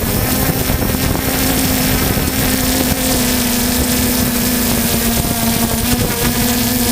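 3DR Solo quadcopter's motors and propellers humming at a steady pitch, with wind buffeting the microphone. The pitch dips briefly about six seconds in.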